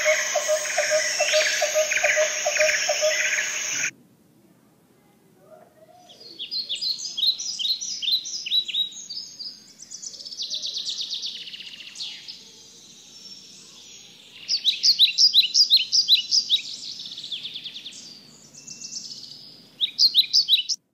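Birds singing: runs of quick, high chirps repeated several times a second, coming in bursts. Before them there is a different, rapidly pulsing call for about the first four seconds, then a short silence.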